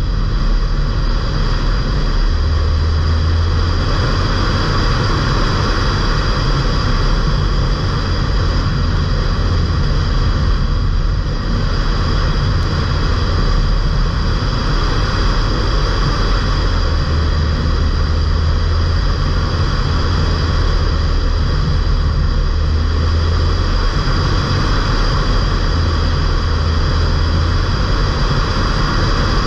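Stage 1 remapped Ford Fiesta mk8 1.5 TDCi four-cylinder diesel under way, a steady loud engine drone mixed with road noise, heard from inside the cabin. The deep drone swells and eases at times, and a steady high whine runs above it.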